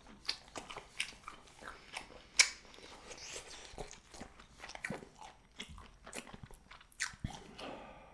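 Close-miked eating sounds of spicy cheese jjimdak being chewed: irregular wet chewing, smacking and mouth clicks, with one sharp click about two and a half seconds in standing out above the rest.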